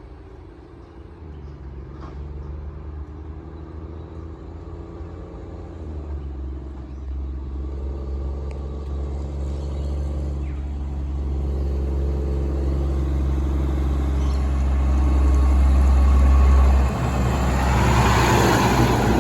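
Diesel engine of a garbage truck running with a low, steady drone, growing louder as it approaches. The drone dips briefly near the end, followed by a short burst of hissing.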